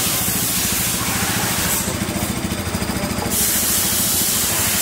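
Bajaj Pulsar NS200's single-cylinder engine idling steadily under a constant hiss, with a rapid rattle about two seconds in that lasts a second and a half.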